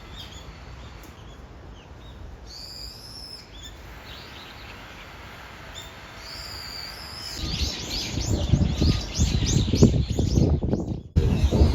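Wild birds calling: two drawn-out, high whistled calls, then a busy run of high chirps in the second half. A loud, low rumbling noise sits under the chirps, and the sound cuts off abruptly near the end.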